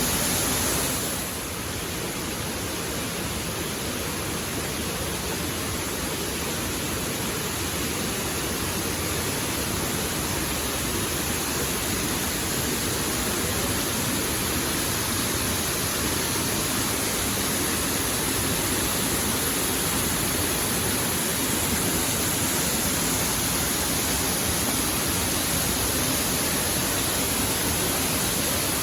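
Waterfall rushing: a steady, unbroken roar of falling water, dipping slightly about a second in.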